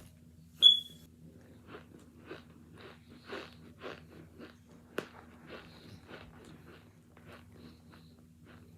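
Close-up chewing and crunching of hard frozen cornstarch chunks, about two crunches a second. About a second in there is a sharp, loud crack with a brief high-pitched ring.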